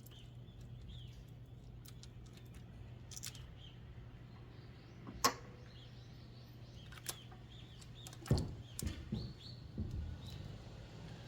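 Small birds chirping over a steady low hum, with one sharp click about five seconds in and a few knocks and clunks near the end.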